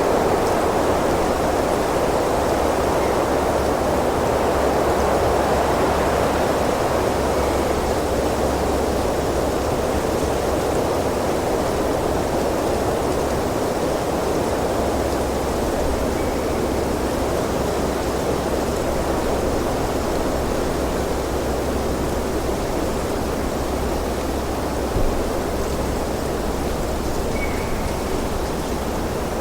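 Wind blowing steadily: an even, constant rushing with a low rumble underneath, and one brief small knock late on.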